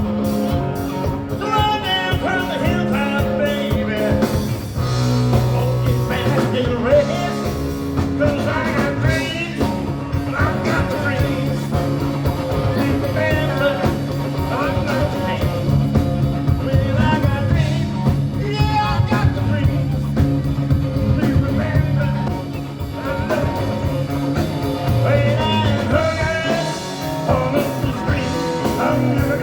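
Live rock and roll band playing, with a singer's voice over bass, guitar and drums at a steady beat.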